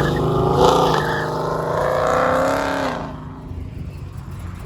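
A car engine revving, held high with a wavering pitch for about three seconds, then dropping back to a low idle.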